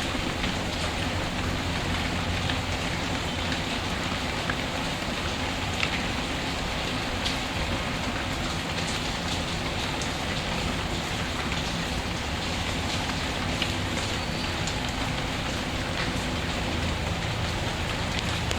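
Steady rain with a few sharp, scattered crackles from a fireplace.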